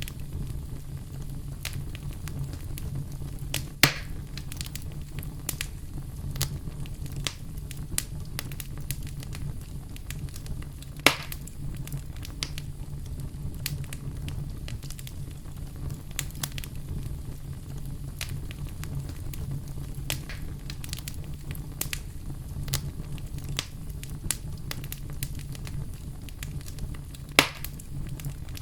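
Campfire crackling: many scattered small crackles over a steady low rumble, with three louder pops, about four seconds in, about eleven seconds in and near the end.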